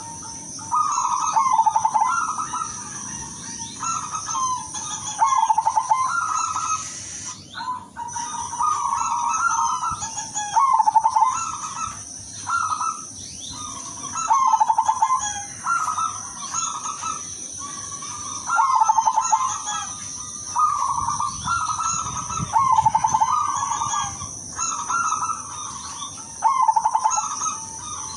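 Silver perkutut (zebra dove) cooing: repeated phrases of quick rolling notes, one every one to two seconds, with a short pause about seven seconds in.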